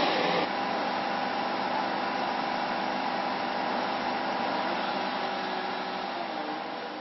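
Steady mechanical drone with a faint held hum, like a running engine or fan. It drops a little about half a second in and slowly fades near the end.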